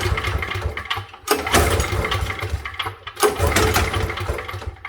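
Briggs & Stratton 5,550-watt portable gas generator being pull-started on choke. The recoil starter is pulled again and again, about a second in and again about three seconds in, and each pull spins the engine briefly without it catching.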